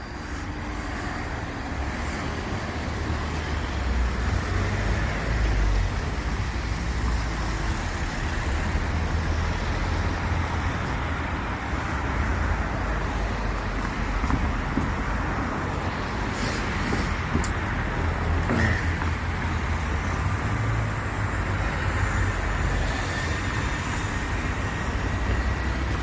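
Steady road traffic: cars and buses passing, with a low rumble throughout and a short sharp sound about two-thirds of the way through.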